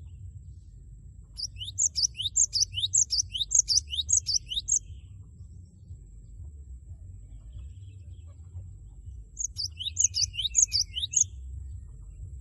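Cinereous tit (gelatik batu) singing its loud "wucit wucit" song: two bursts of rapid, high, repeated sweeping notes, about three a second, the first lasting about three seconds and the second about two seconds near the end.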